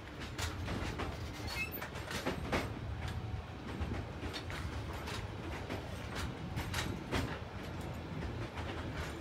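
DB Cargo Eanos-type high-sided open freight wagons rolling past on the rails. There is a steady low rumble with irregular sharp clacks and creaks from the wheels and couplings.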